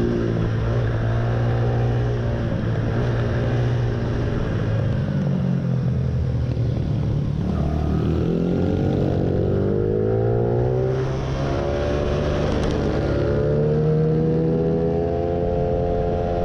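Motorcycle engine at track pace, heard from onboard: the revs climb in long rising sweeps and fall back several times as the rider accelerates, shifts and slows for corners.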